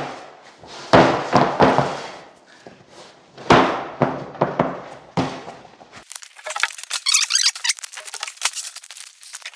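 Gypsum boards being handled: several heavy thuds with a deep ring as sheets are set down, then a high scraping and squeaking for the last few seconds as a board slides.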